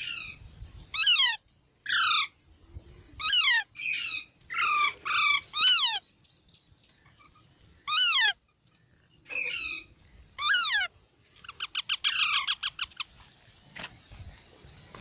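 Baby parrots squawking: a string of about ten short, harsh calls, each falling in pitch, roughly one a second, with a fast rattling chatter about twelve seconds in.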